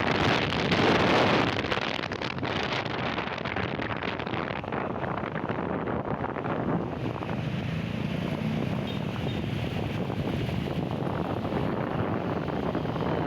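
Wind buffeting the microphone over the steady rush of ocean surf, gustier in the first second or so.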